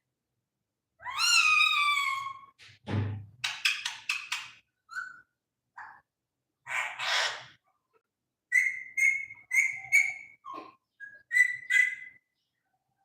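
Pet parrot whistling and calling: a drawn-out whistle falling in pitch about a second in, then scattered short squawks and clicks, and a run of short repeated chirps near the end. A brief low thump comes about three seconds in.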